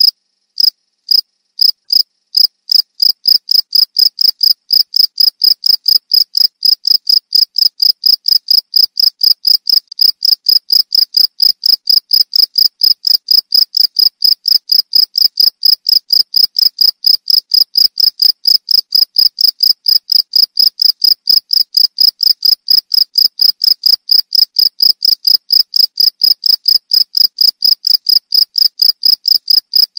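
Cricket chirping: a steady, even train of short high-pitched chirps, about three to four a second. The first few chirps near the start come more slowly and spaced out.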